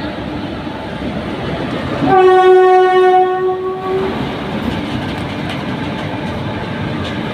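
Indian Railways locomotive horn sounding one steady blast of about two seconds, a little over two seconds in, over the continuous rumble and clatter of a passenger train running along the platform.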